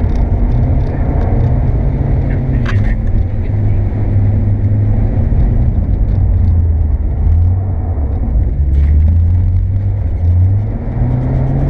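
Nissan Skyline R32's engine heard from inside the cabin, its revs rising and falling repeatedly as the throttle is worked. There are a couple of brief knocks, one about three seconds in and one near nine seconds.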